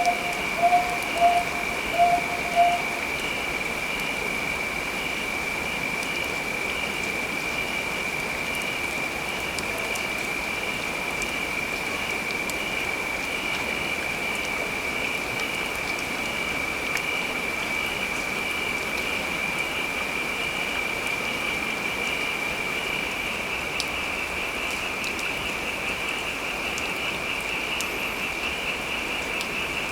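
Steady rain with a continuous high-pitched pulsing trill over it. Five short, lower notes, the loudest sounds, come in the first three seconds.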